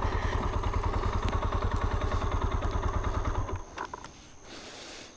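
Motorcycle engine idling with a steady low pulsing beat, then switched off about three and a half seconds in; a few faint clicks and a short soft hiss follow.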